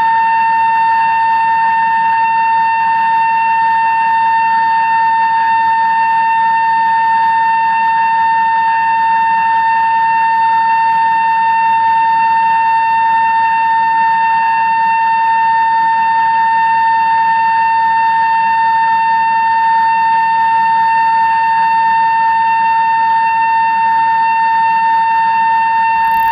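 A 2-inch Kennametal drill cutting through 316 stainless steel under CNC power, giving a steady high-pitched whine with overtones that holds one pitch and level throughout.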